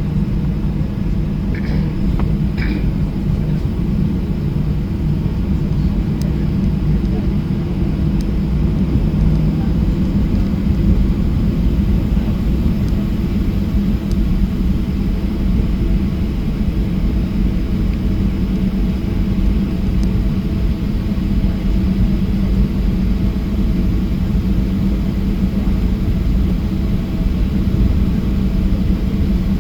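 Steady cabin noise of a Boeing 737-800 with its CFM56-7B turbofan engines running, heard from inside near the wing: a continuous loud rumble with a steady low hum.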